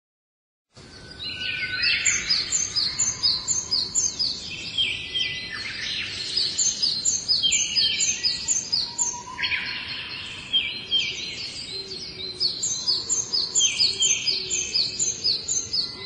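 Birds chirping in quick runs of short, repeated high notes, several runs overlapping, over a steady background hiss; the sound starts a little under a second in.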